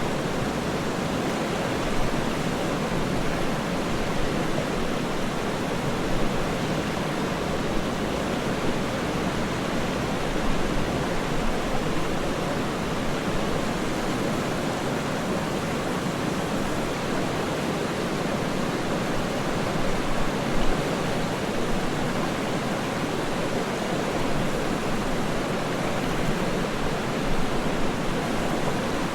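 Waterfall rushing steadily, an even, unbroken wash of falling water with small swells in loudness.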